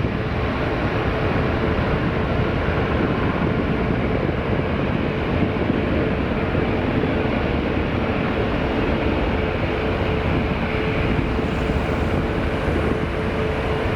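Airbus A330-300 twin jet engines at takeoff thrust: a loud, steady rush of engine noise with a steady hum running through it.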